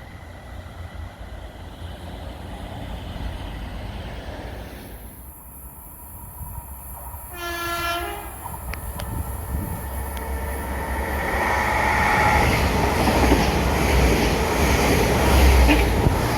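Train horn sounding one short note about seven seconds in, then a train approaching and passing, its rumble building louder toward the end.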